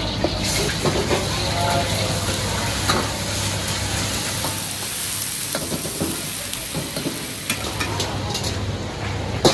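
Food frying in hot oil, a steady sizzle with scattered sharp clicks, over a steady low hum.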